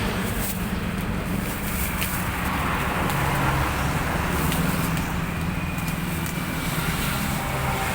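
Steady low mechanical hum under an even wash of noise, like an engine running with road noise.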